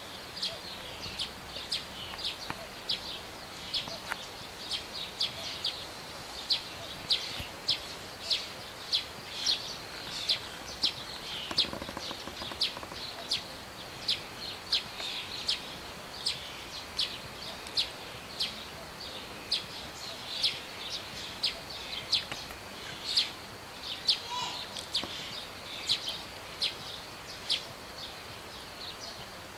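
A bird calling over and over from the grass with short, sharp high notes, about two a second.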